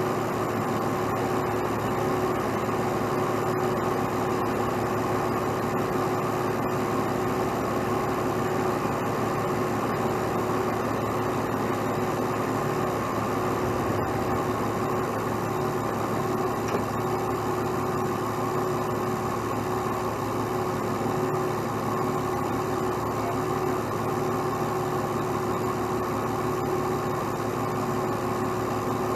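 Heavy truck engine idling steadily, with an even, unchanging drone.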